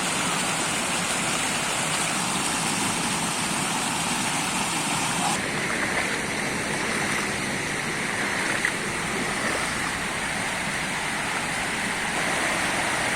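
Steady rushing of flowing floodwater, with a slight change in tone about five seconds in.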